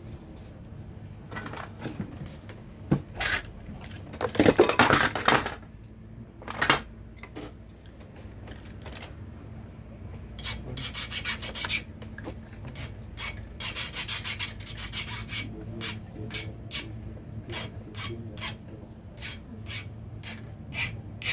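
Repeated rubbing and scraping strokes on a hard surface, in bursts: a longer scrape about four seconds in, fast runs of strokes in the middle, then short strokes about two a second.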